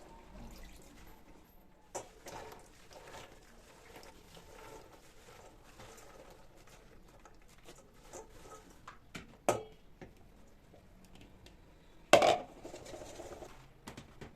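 Kitchen handling sounds: scattered light clicks and clatter of dishes, containers and utensils being moved, with two louder knocks, one about two-thirds of the way in and a sharper one near the end.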